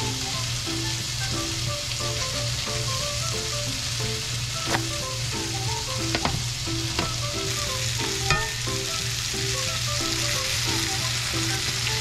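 Vegetables frying in a cast iron skillet and a pancake cooking on a griddle pan, a steady sizzle. A few sharp clicks come from the spatula as the pancake is flipped around the middle.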